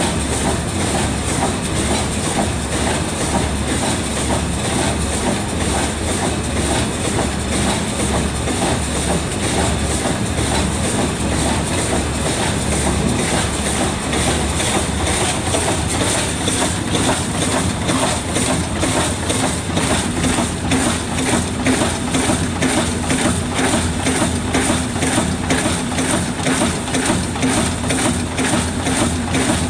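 Vertical form-fill-seal packing machine running steadily while bagging sunflower seeds: an even, rhythmic mechanical clatter with a thin, steady high whine over it.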